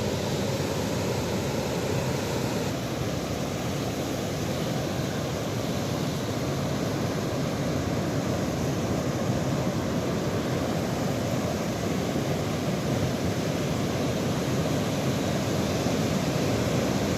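Steady rushing noise of moving water, even and unbroken, heaviest in the low range and swelling slightly near the end.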